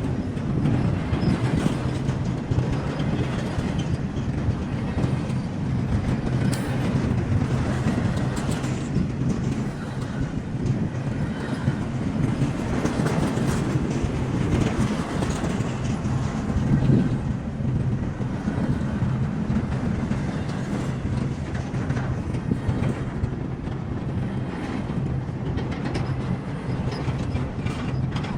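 A train rolling past steadily, its cars running along the rails.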